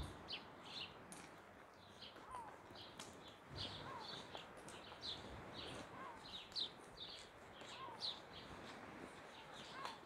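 Faint birds chirping: a run of quick, high chirps over and over, with a short lower call that drops in pitch every second or two.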